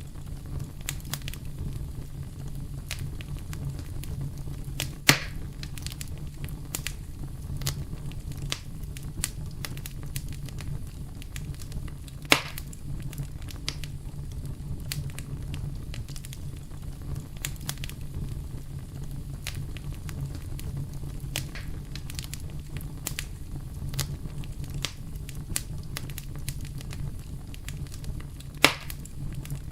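Campfire crackling: a steady run of small crackles over a low rumble, with three louder pops, about five seconds in, about twelve seconds in, and near the end.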